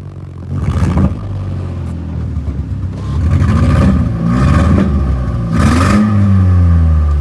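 Volkswagen Golf Mk4 2.0 four-cylinder engine running rough with a misfire, revved up and let fall back three times.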